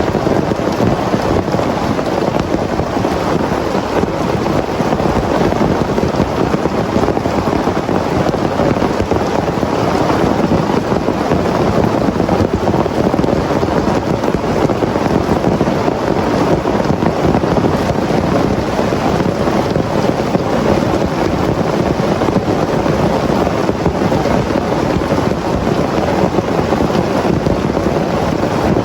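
Heavy rain pouring in a dense, steady downpour, with no thunderclap.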